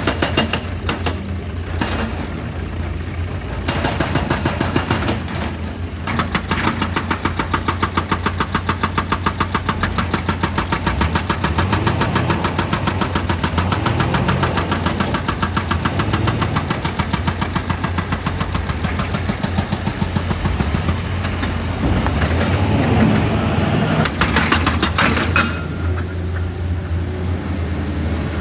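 Excavator engine running steadily under load, with a rapid, even hammering that starts about six seconds in and stops near the end, typical of rock being broken; a few heavier irregular knocks come at the start and near the end.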